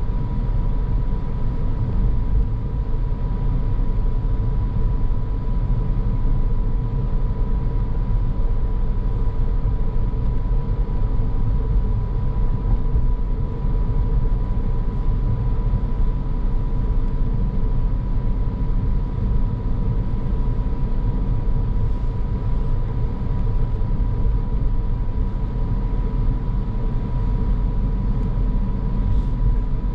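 A car being driven, its road and engine noise a steady low rumble, with a thin steady high tone running through it.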